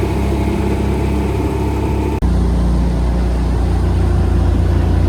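An engine running steadily at a constant speed, with a deep hum. About two seconds in it cuts off abruptly and resumes with a slightly different pitch, as two recordings of the engine are spliced together.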